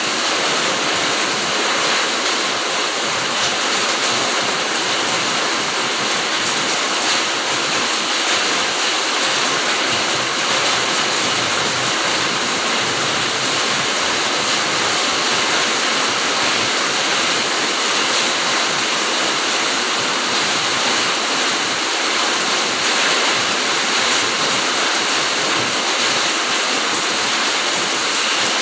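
Steady rain falling, an even hiss with no lulls or single drops standing out.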